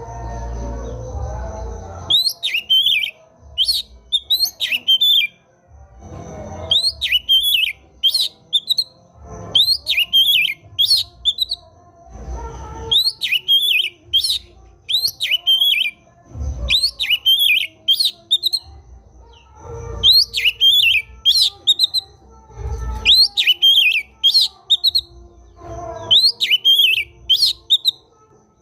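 Oriental magpie-robin (kacer) singing loud, rapid phrases of quick up-and-down whistled notes, repeated in clusters every three to four seconds. Short low rumbles fall between the clusters.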